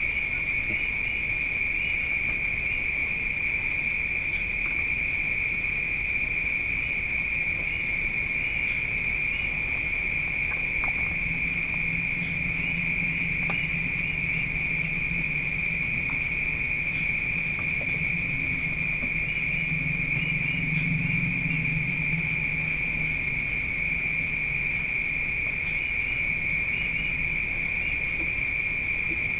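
Night insects, crickets, trilling in a steady, unbroken high-pitched drone with small chirps on top. A faint low hum rises underneath for about ten seconds in the middle.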